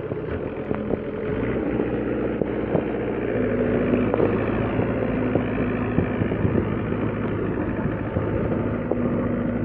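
A vehicle engine running steadily, picking up in loudness about a second in, with a few light clatters.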